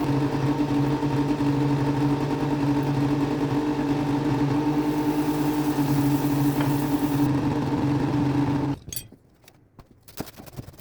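A steady motor hum that cuts off abruptly about nine seconds in, followed by faint clicks and knocks.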